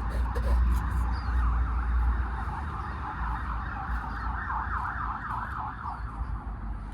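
Fire truck siren sounding, a wail that wavers and then switches to a fast yelp, sweeping up and down about three times a second, over a low rumble.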